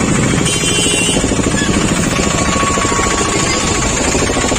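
Motorcycle engine running close by with a rapid, steady pulsing beat, amid street traffic. A short high-pitched tone sounds about half a second in.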